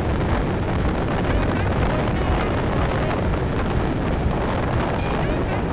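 Wind rushing and buffeting over the microphone, with road and engine rumble, while riding a Yamaha Tricity 155 scooter at speed.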